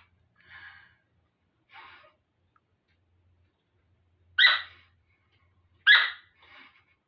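Parrot calls: two short, loud squawks about a second and a half apart, with a few softer short calls before and after them.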